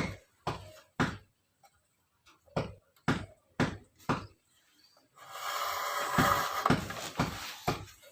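Sharp wooden knocks, about two a second, in two short runs, then a couple of seconds of rasping scraping with more knocks in it: hand-tool work on bamboo bird-cage spokes.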